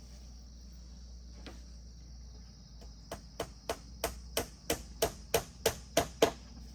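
A quick run of about a dozen blows from a hand tool, about three a second, growing louder and stopping near the end, over a steady high buzz of insects.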